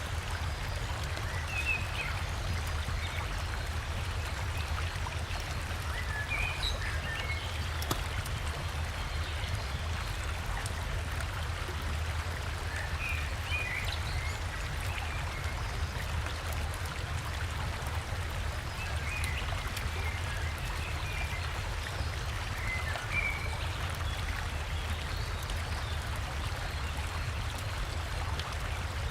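River water rushing steadily over a small waterfall, a constant wash with a low rumble underneath. Forest birds chirp in short, scattered calls over it every few seconds.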